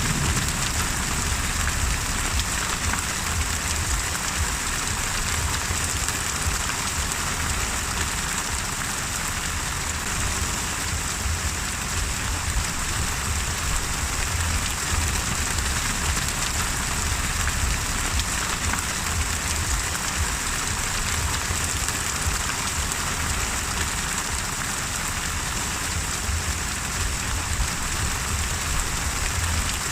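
Steady heavy rain, with a low rumble underneath throughout.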